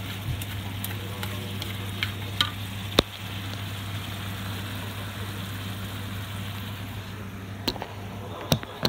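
Nikujaga of beef, potato and carrot sizzling in a frying pan as it is stirred with wooden chopsticks. Several sharp clicks of the chopsticks against the pan, the loudest about three seconds in and two more near the end, over a steady low hum.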